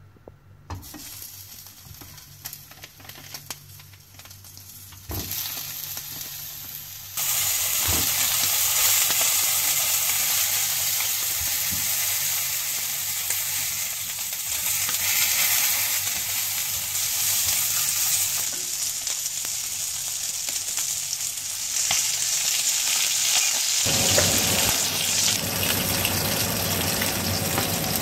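Whole boiled quail frying in a nonstick frying pan, a steady sizzle of fat and juices as they brown. The sizzle starts faint, steps up about five seconds in, and is loud from about seven seconds in.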